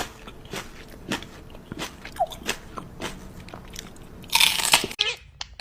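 Crunching and biting: a pet bird chewing something hard, with sharp cracks about twice a second. Near the end comes a loud, brief hissing rush, then short bird chirps.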